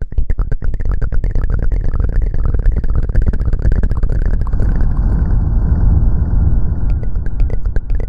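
Close-up ASMR rubbing and scrubbing right on the microphone: dense crackling and scratching over a heavy low rumble.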